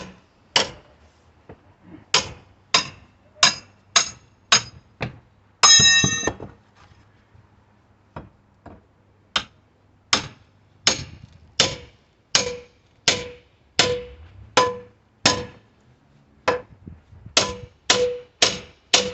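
Mini sledgehammer striking a crowbar wedged between pallet boards: steady, repeated metal-on-metal blows, roughly one every 0.7 seconds, each with a short ring. There is a pause of a few seconds in the middle, and one blow just before the pause rings out longer. The boards are old and stubborn to pry apart.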